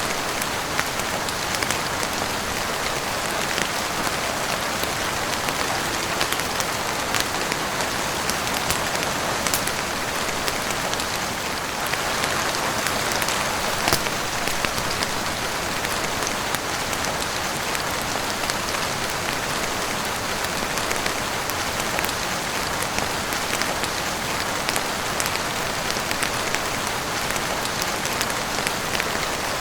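Heavy rain falling steadily, a dense even hiss with many small sharp ticks scattered through it and a few louder ones.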